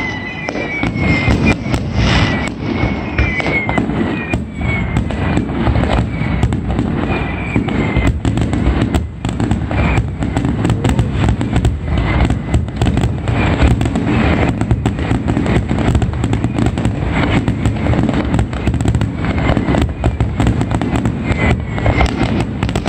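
Fireworks display: a dense, continuous barrage of bangs and crackling. Whistles gliding down in pitch ring out over it during the first few seconds and again near the end.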